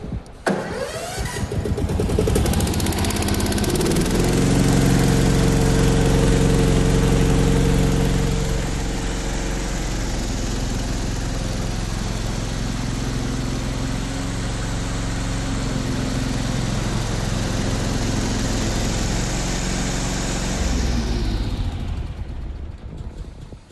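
Engine of a remote-controlled tracked slope mower running. It rises in pitch in the first couple of seconds, runs loudest for a few seconds, then holds steady before fading out near the end.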